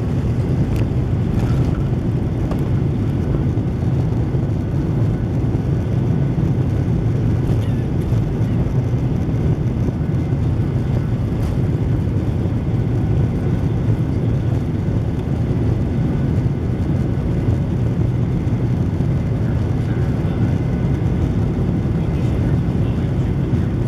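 Steady, loud rumble of a Boeing 737-900's CFM56 jet engines at takeoff power, heard from inside the passenger cabin together with the rush of air.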